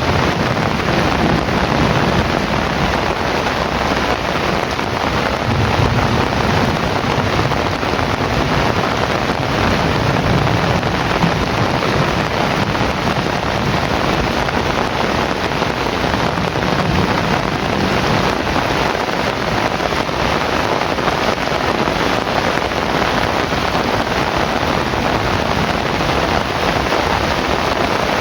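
Heavy rain falling steadily, with a few slow, low rumbles of distant thunder swelling and fading under it.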